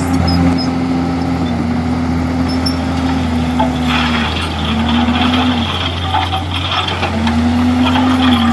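Komatsu D51EX bulldozer's diesel engine running under load, its note sagging and recovering several times. A rougher rattling noise joins in from about four to seven seconds in.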